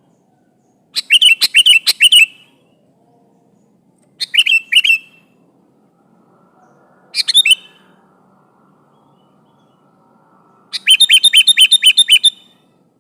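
Sooty-headed bulbul (kutilang) singing: four loud bursts of quick, sweeping chirpy notes with short pauses between them, the last a fast run of about a dozen repeated notes near the end.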